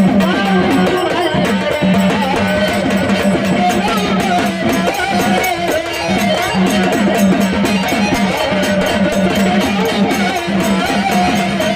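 Marathi Malhar folk song played live: a wavering melody line over a steady low drone, with rhythmic percussion.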